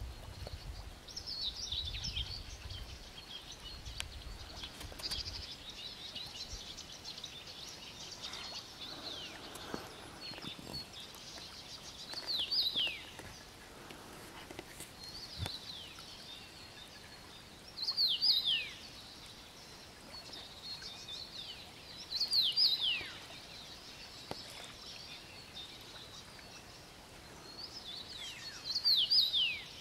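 A songbird sings a short phrase of quickly falling whistles four times, a few seconds apart, over a steady background of other birds chirping.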